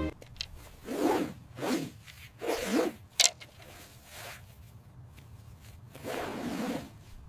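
Four short scraping strokes of about half a second each, with a sharp click about three seconds in.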